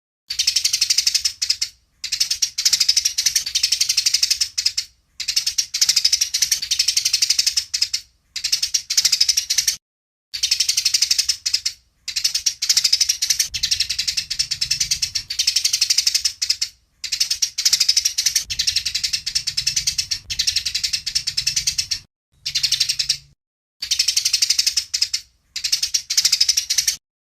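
Eurasian tree sparrows giving rapid, dense, high chirping chatter, the excited calls of sparrows fighting. The chatter comes in bursts of one to three seconds broken by short pauses.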